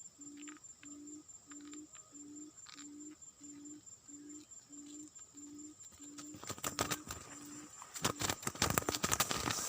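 A low coo-like bird call repeated very evenly, about two notes a second, fading out about eight seconds in. From about six seconds in, rustling and crackling build up and become the loudest sound near the end.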